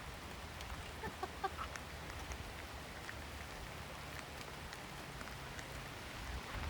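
Light rain falling, a steady faint patter, with a few short bird chirps about a second in.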